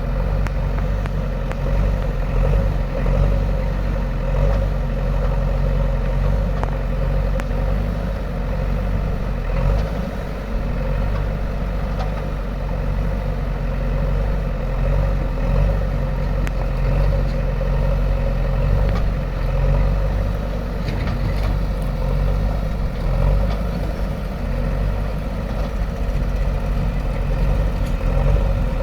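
Heavy diesel engine of earthmoving machinery, a backhoe loader or tractor, running steadily at a low, even speed with a few light clanks.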